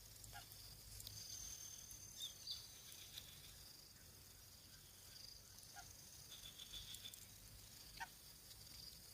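Faint, steady high-pitched insect chirring, with a few short, faint chirps about half a second, two and a half, six and eight seconds in.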